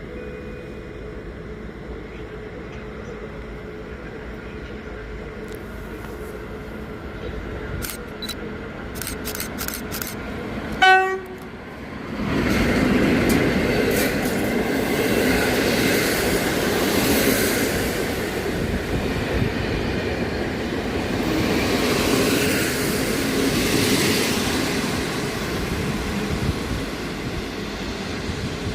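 EP07 electric locomotive gives one short horn blast about eleven seconds in. Straight after, the locomotive and its train of coaches run past loudly with a steady rumble on the rails.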